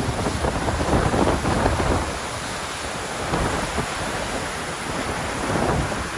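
Steady rushing of a waterfall, with wind buffeting the microphone in gusts that are strongest in the first two seconds.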